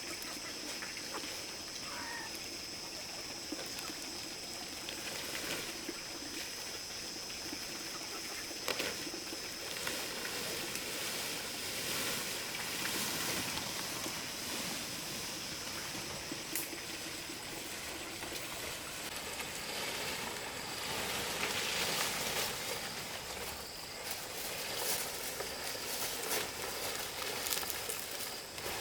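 Outdoor ambience: a steady high-pitched drone, with scattered light clicks and rustles.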